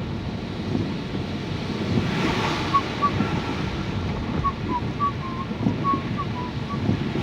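Inside a car driving in heavy rain: a steady low rumble of tyres on the wet road and rain on the car, with a hiss that swells about two seconds in. A few faint short chirps come through in the middle.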